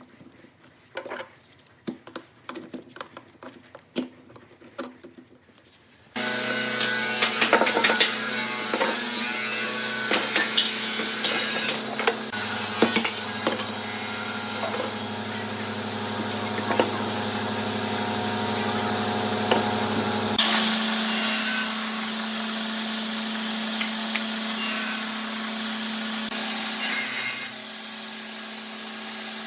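Light clicks and taps, then about six seconds in a wood lathe starts and runs steadily while a tool scrapes against the spinning wood. About two-thirds of the way through, the machine's sound changes, with a higher whine coming in.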